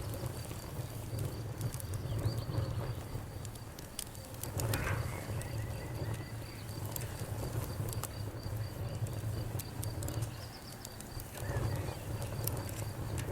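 Wood fire crackling, with frequent sharp pops and snaps over a low steady rumble of the flames. A thin, high pulsing trill sounds behind it.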